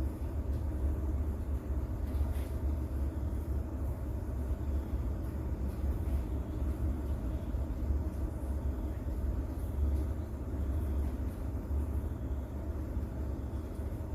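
Rain-and-thunder sleep ambience: a steady, deep rumble with only a faint hiss of rain above it.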